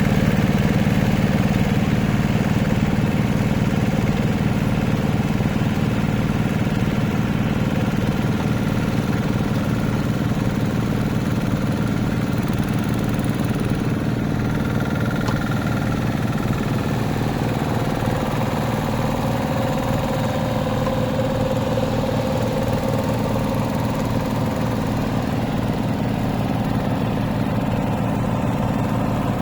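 Hand tractor's engine running steadily with an even, fast pulse.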